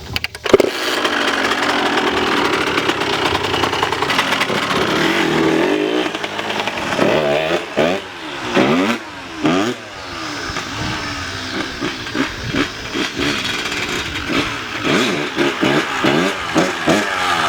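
Small dirt bike engine running. After about six seconds of steady running it is revved up and down again and again, about once a second.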